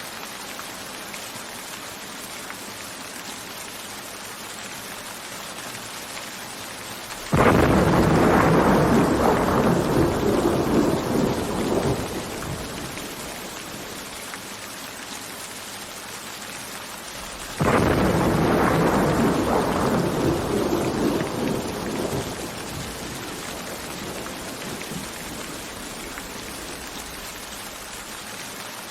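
Steady heavy rain with two loud claps of thunder, each breaking in suddenly and rolling away over about five seconds; the first comes about a quarter of the way in, the second about ten seconds later.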